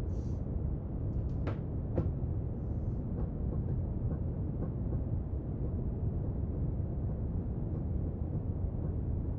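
Steady brown noise, a deep, even rushing hiss. About one and a half and two seconds in come two sharp little clicks, and a few fainter ticks and brief soft rustles sit on top of it.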